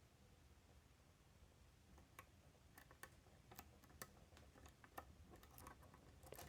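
Faint, scattered clicks of a disc detainer pick turning the wafers inside a Miwa DS lock. The clicks grow more frequent from about two seconds in.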